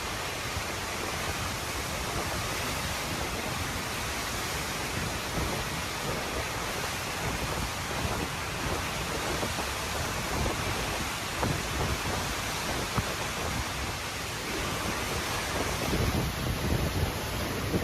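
Hurricane wind and rain: a steady rushing roar with gusts buffeting the microphone. About sixteen seconds in it turns heavier, with deeper rumbling gusts.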